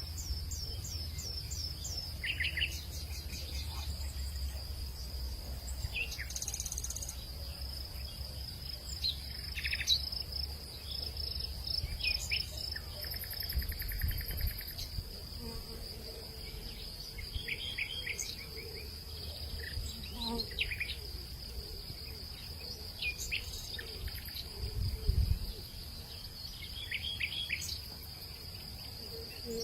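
Outdoor hillside ambience: a steady high-pitched insect drone with birds chirping in short, scattered calls over it. A low rumble underneath, like wind, swells briefly about halfway through and again near the end.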